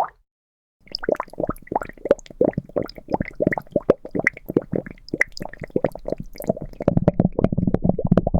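Liquid bubbling and plopping: a quick, irregular run of small pops starting about a second in, growing denser and deeper into a gurgle near the end.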